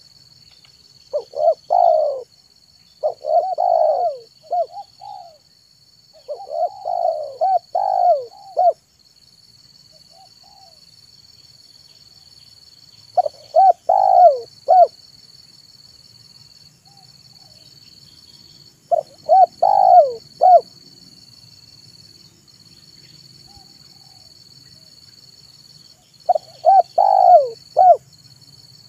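Spotted dove (tekukur) cooing: six bouts of several low coos each, a few seconds apart. A faint steady high-pitched buzz with short breaks runs behind them.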